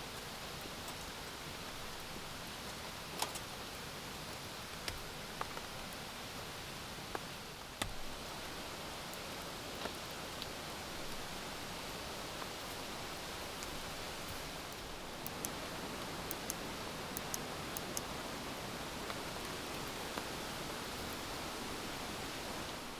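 Steady rain hissing, with single drops tapping sharply here and there, several in quick succession a little past the middle.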